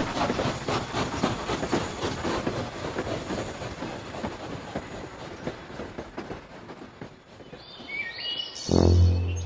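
Train running on rails, a rhythmic clatter that fades steadily as it moves away. Loud, sustained musical notes come in near the end.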